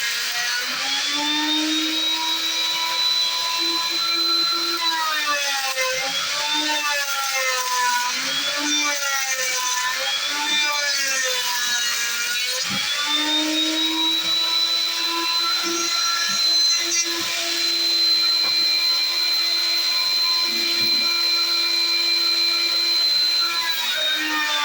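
High-speed electric power tool motor whining, its pitch dipping and recovering several times in the first half as it is loaded, then running steady at full speed, winding down near the end.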